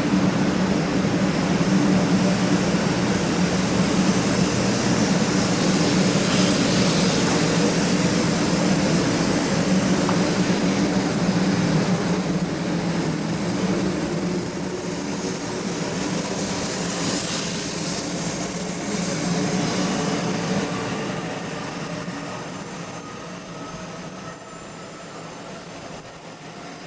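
500 series Shinkansen train pulling away, its running noise loud at first and then fading. Its traction-motor whine climbs in pitch as it gathers speed.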